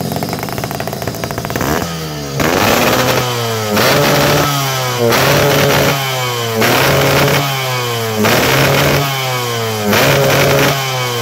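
Two-stroke motorcycle with a round expansion-chamber exhaust idling with a rattle, then blipped six times, each rev climbing quickly and dropping back to idle. The carburettor is judged to be not set up well enough.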